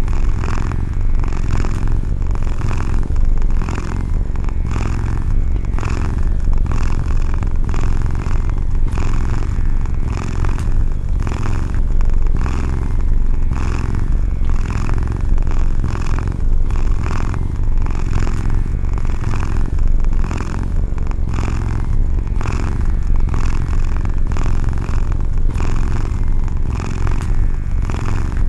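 Domestic cat purring loud and close: a steady low rumble with a regular pulsing rise and fall, about two pulses a second.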